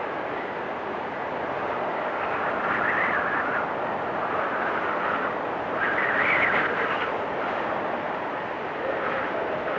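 Blizzard wind blowing steadily, swelling in gusts about three seconds in and again about six seconds in.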